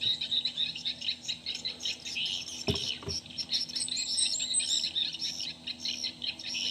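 Many birds chirping and calling at once in a dense, busy chorus of short high notes. A little under three seconds in, two dull knocks come close together.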